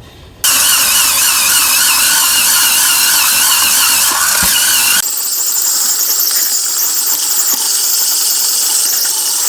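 Cordless battery-powered spin scrub brush scrubbing a heavily stained sink with abrasive cleaner: a loud, steady hiss of spinning bristles with a wavering high squeal. About five seconds in, the sound turns thinner.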